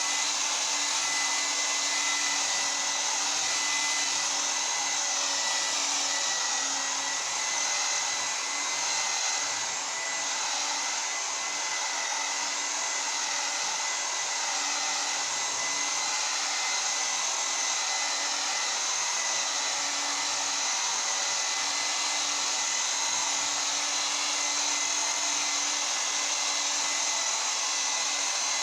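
Large electric rotary buffer running steadily with rubbing compound on a car's clear coat after wet-sanding to 2500 grit. The motor whine holds steady, wavering slightly in pitch.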